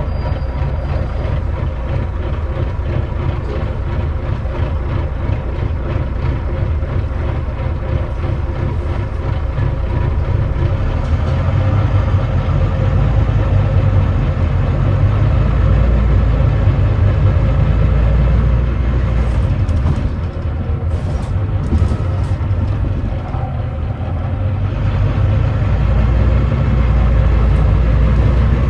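Volvo D9B diesel engine of a Volvo B9TL double-decker bus running under way, a steady low rumble that gets louder about a third of the way in and again near the end as it pulls harder. The engine is one whose run the uploader labels as misfiring and thrashing.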